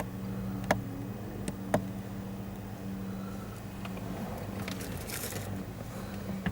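A vehicle engine idling with a steady low hum. Two sharp clicks come about a second apart near the start, and a short hiss comes later.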